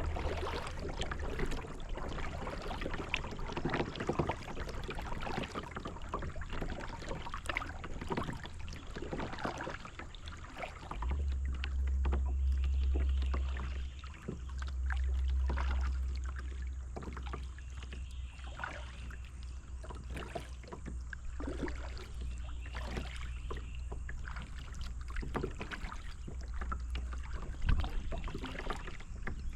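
Kayak paddle strokes dipping and splashing in the river, with water dripping off the blades, over a steady low rumble on the microphone that swells for a few seconds before the middle.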